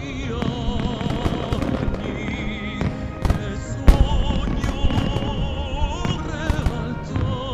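Starmine fireworks bursting in a rapid, irregular series of bangs over music played on the venue loudspeakers; the loudest bang comes about four seconds in.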